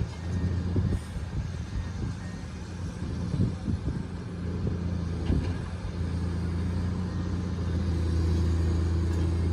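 Excavator's diesel engine running, with scattered knocks during the first half; the engine note steadies and gets a little louder over the last few seconds.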